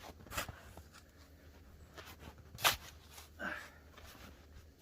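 Snow shovel chopping and scraping into the packed top layer of snow, a few separate strokes, the sharpest about two and a half seconds in.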